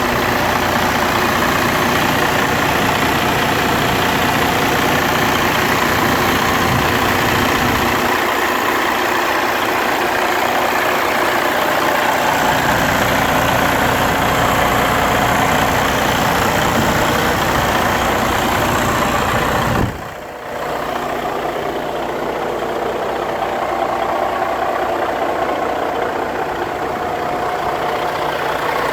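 Heavy truck engine idling steadily. The sound dips sharply for a moment about twenty seconds in, then carries on a little quieter.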